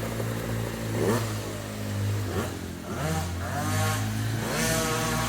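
Dirt bike engines revving: the pitch climbs sharply several times over a steady low engine drone.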